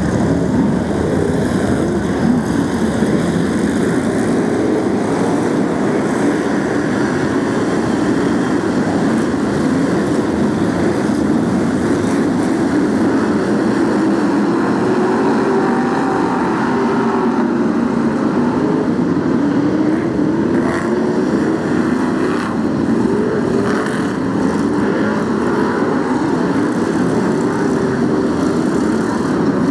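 A pack of BriSCA F1 stock cars racing, their V8 engines running loud and continuous, with overlapping engine pitches rising and falling as cars accelerate and pass. A few sharp knocks about two-thirds of the way through.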